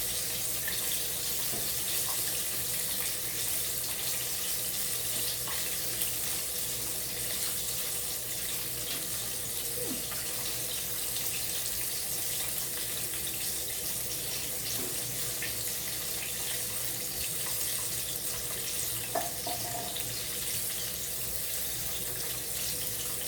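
Chicken wings frying in hot oil: a steady sizzling hiss, which the cook hears as the chicken being ready.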